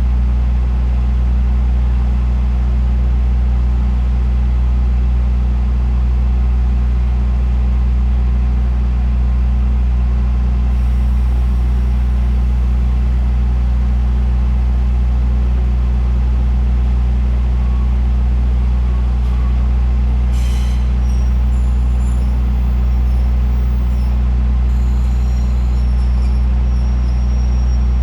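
Diesel train engine idling steadily at close range, a deep even hum, with one brief sharp click about twenty seconds in.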